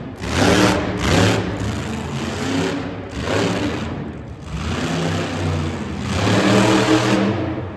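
Monster truck engine revving hard in several surges, its pitch rising and falling between them.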